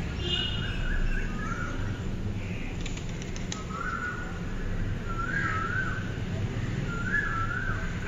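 Bird song: short warbling phrases repeated every second or so, over a steady low rumble of outdoor background noise.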